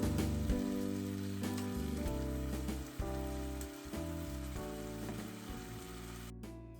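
Background music with slow held notes, fading out, over the sizzle and crackle of pork belly and vegetables stir-frying in a pan; the sizzle cuts off suddenly near the end.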